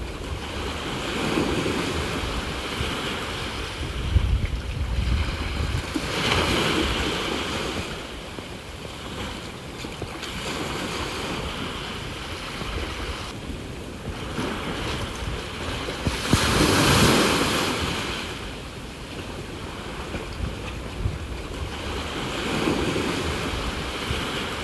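Ocean waves breaking and washing ashore in surges every few seconds, the biggest about two thirds of the way through. Wind buffets the microphone in low rumbles.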